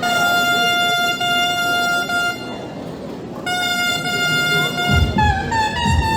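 A wind instrument with a reedy, horn-like tone holding long, steady notes, pausing, then moving up in pitch. Low drum beats join in about five seconds in.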